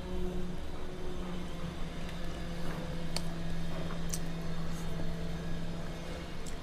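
A steady low mechanical hum with a low rumble under it, and a few faint sharp clicks.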